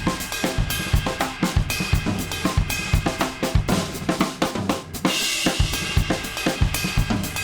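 Music driven by a full drum kit: a steady kick drum about twice a second with snare and hi-hat over pitched backing, and a bright cymbal wash about five seconds in.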